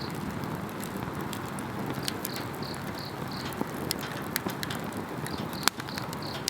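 Wood fire burning in a small firepit grill, crackling with frequent sharp pops and one louder pop near the end. Insects chirp alongside in short pulses about three a second, in bursts.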